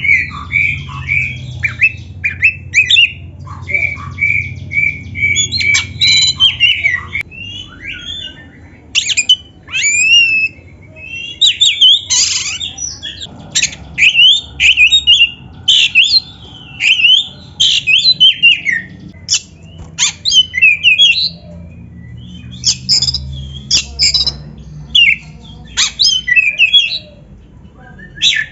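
Oriental magpie-robin (kacer) singing a loud, varied song of sharp whistles and chirps. It opens with a run of evenly repeated notes in the first several seconds, then changes to quick, changing phrases.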